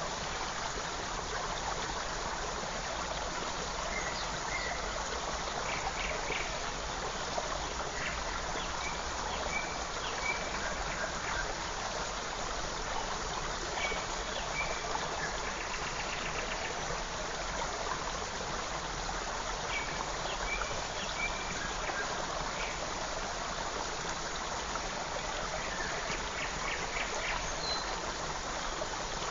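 Creek water running steadily, with brief high bird chirps breaking in every few seconds in small clusters.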